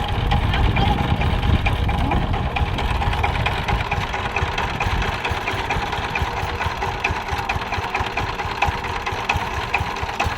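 Single-cylinder diesel engine of a Saifing 12 hp power tiller running with a fast, even knock, heavier and deeper for the first two seconds or so.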